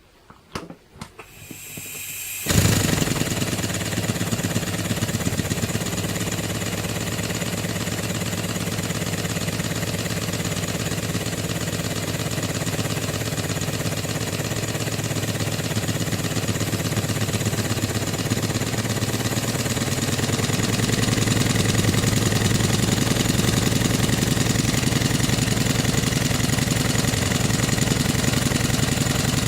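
Stuart compound launch engine, a model steam engine, starting up: a few clicks and a rising hiss, then from about two and a half seconds in it runs steadily with a fast, even beat. It gets a little louder from about twenty seconds in.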